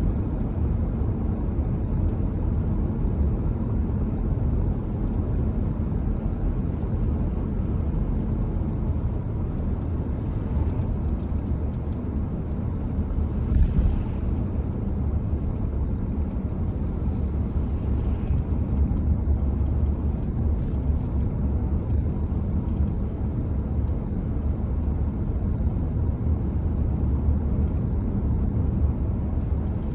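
Car driving along a road: a steady low rumble of engine and tyre noise, with faint scattered ticks and one brief louder bump about halfway through.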